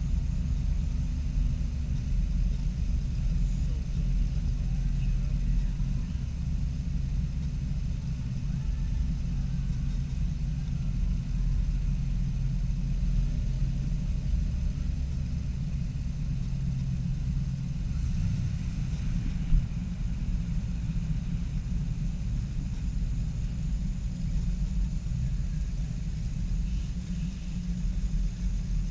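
Car engines running with a steady low rumble, with one brief sharp click about two-thirds of the way through.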